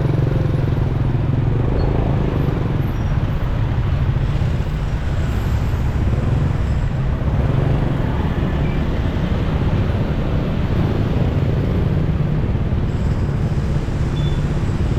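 Steady road noise from a moving motorcycle in traffic: engine, tyres and surrounding vehicles under a dense low rumble that holds level throughout.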